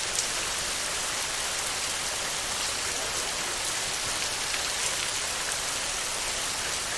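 Steady rain falling on a tin roof: an even hiss with scattered individual drop ticks.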